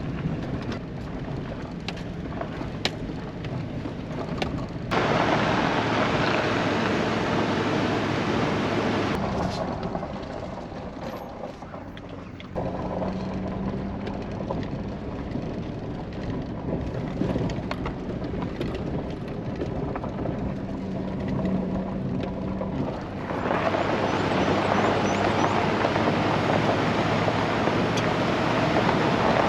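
Pickup truck creeping along a rough, rocky dirt road: the engine runs steadily under tyre and road noise, with body rattles and clicks from the stiff-riding truck. The noise steps abruptly louder or softer a few times.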